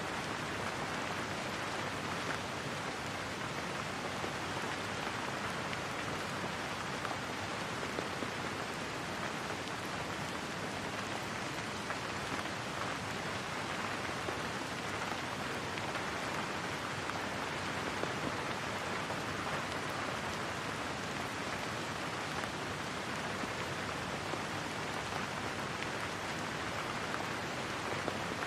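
Steady rain falling, an even hiss of raindrops with no letup.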